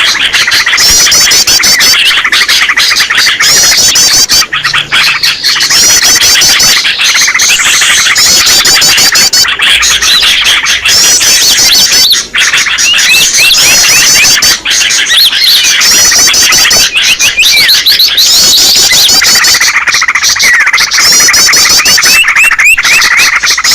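A noisy chorus of many small songbirds chirping and trilling at once, a dense, loud jumble of rapid overlapping calls: a lure recording for drawing small birds to a trap.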